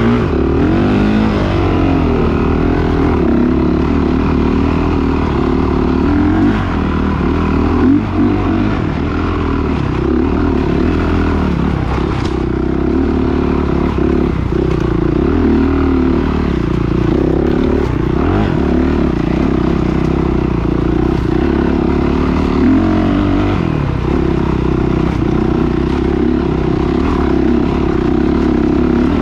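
Several motocross bikes revving hard, their engine notes rising and falling over one another as they accelerate and shift.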